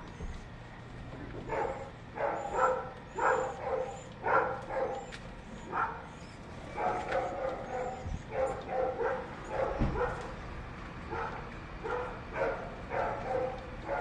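Dog barking and yipping repeatedly in irregular bursts of short calls, with faint high bird chirps behind.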